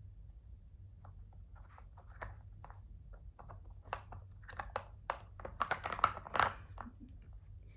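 Cat pawing and nosing at a treat puzzle toy: irregular taps, clicks and rustling scrapes, busiest and loudest a little past the middle.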